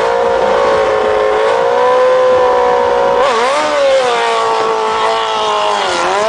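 A vehicle engine held at high revs, its pitch mostly steady, dropping and picking back up briefly about three seconds in and again near the end.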